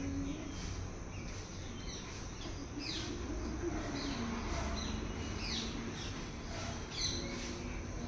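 Small birds chirping, a short falling chirp every second or so, over a steady low outdoor rumble.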